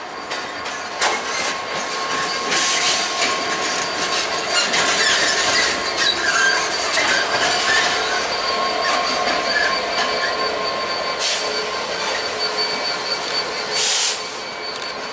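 Train running through a station, its wheels squealing in several steady high tones over a running rumble, with scattered clicks and a short loud hiss near the end.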